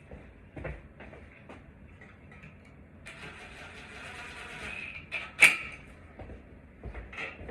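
Light knocks and handling clatter, with a rustling hiss lasting about two seconds, then one sharp clack a little past the middle.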